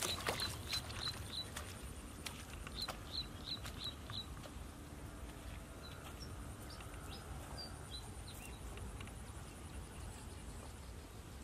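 A bird calling short chirps in quick runs of about three a second during the first four seconds, then a few scattered chirps. Squelching steps in wet mud in the first couple of seconds, over a faint steady high whine.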